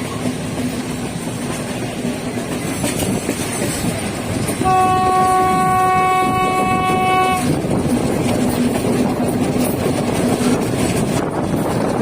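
Train running with a steady rumble, its horn sounding once for about three seconds in the middle.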